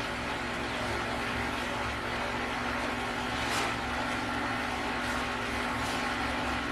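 Steady droning hum and hiss of a running machine, with a faint tick about three and a half seconds in.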